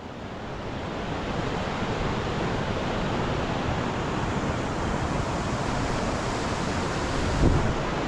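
Waterfall rushing steadily, an even wash of falling water that fades in over the first couple of seconds. A brief low thump about seven and a half seconds in.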